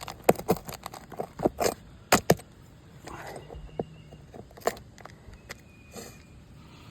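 Asphalt three-tab roof shingles being pried up and their nails worked loose: a quick run of sharp clicks and scrapes in the first two and a half seconds, then a few scattered clicks.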